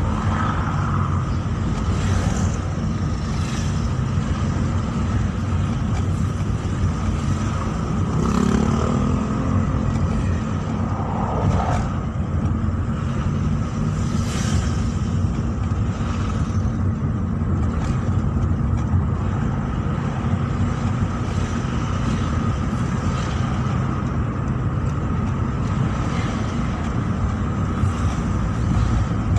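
Steady engine and road noise of a car driving, heard from inside the cabin: a constant low rumble with a faint steady whine above it.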